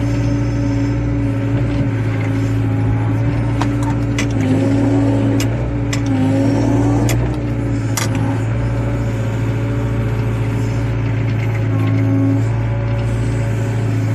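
Excavator diesel engine running steadily, its note wavering and shifting for a few seconds in the middle, with several sharp clicks and knocks between about three and eight seconds in.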